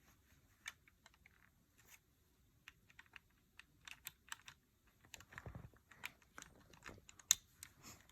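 Plastic LEGO bricks clicking and clattering as pieces are picked out and pressed together, a string of light irregular clicks with one sharper click a little after seven seconds in.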